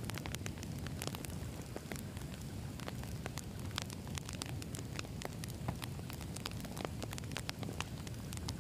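Campfire of burning wood logs: a steady low rumble of flames with many irregular sharp crackles and pops.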